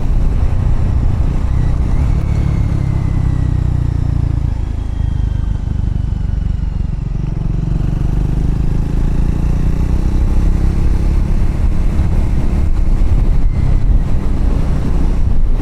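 Triumph Scrambler motorcycle being ridden, its engine running under a heavy low rumble. It eases off a few seconds in and builds again toward the end.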